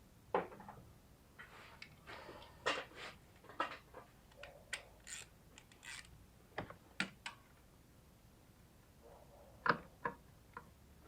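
Hand tools clicking, knocking and scraping against metal parts at irregular intervals, with a few louder clanks and two quiet pauses.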